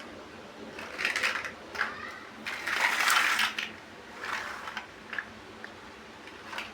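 Plastic building bricks being handled, rattling and clicking against each other in bursts, the longest about midway.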